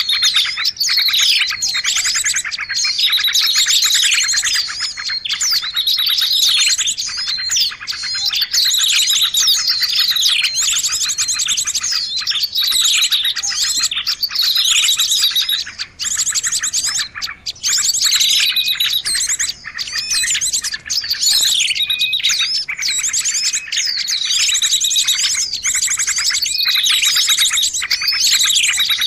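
A dense, layered chorus of many small songbirds chirping and trilling at once, a bird-lure recording made to draw small birds in. Falling chirps and fast trills overlap without a pause.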